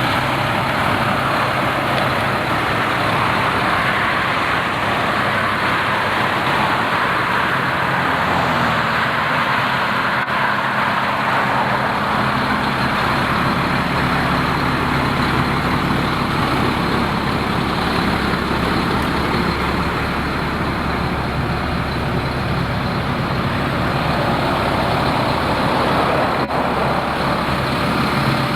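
Freightliner M2 hauler truck's diesel engine running steadily at idle, an even low hum with no revving.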